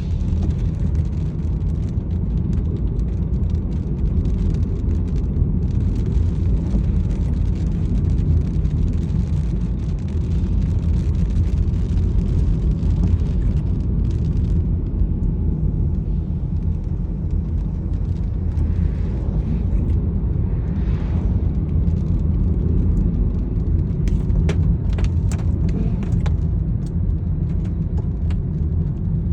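Steady low rumble of a vehicle on the move, with a few brief clicks near the end.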